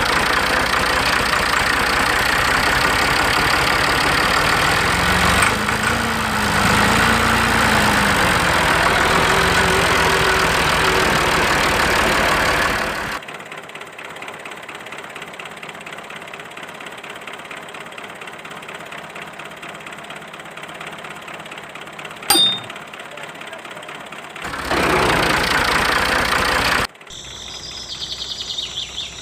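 A motor running loudly and steadily, its pitch swinging up and down a few seconds in. After about thirteen seconds it drops to a much quieter stretch with a single sharp click. It comes back loud for a couple of seconds near the end, then cuts off suddenly.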